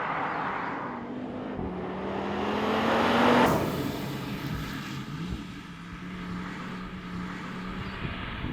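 Audi RS3's 2.5 TFSI turbocharged five-cylinder engine accelerating with a rising note that peaks about three and a half seconds in, then drops away sharply. It then carries on at a steady, lower pitch.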